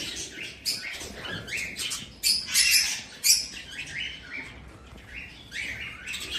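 Budgerigars chirping and chattering, many short overlapping calls, loudest from about two to three and a half seconds in.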